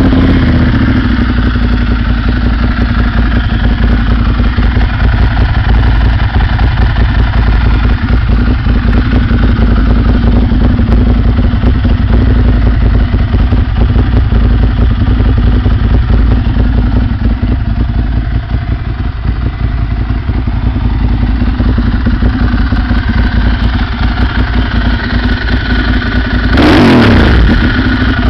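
Ducati Monster 1100's air-cooled L-twin idling through HMF carbon-fibre slip-on mufflers, a steady, loud, even exhaust note, just after starting. Near the end the throttle is blipped once, and the revs rise and fall back to idle.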